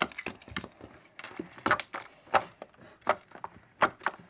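Foam slime made with shaving foam being squeezed and stretched by hand, crackling: a string of sharp, irregular pops several times a second as the air bubbles in it burst.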